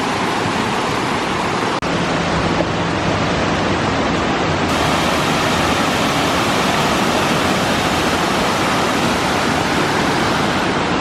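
Waterfall: a steady, loud rush of falling water, with a brief break about two seconds in.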